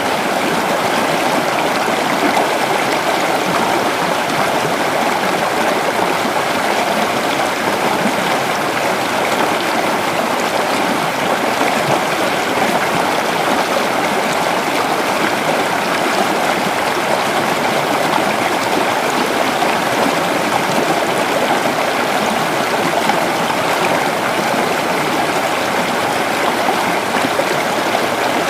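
Creek water running over stones: a steady, even rush and burble with no breaks.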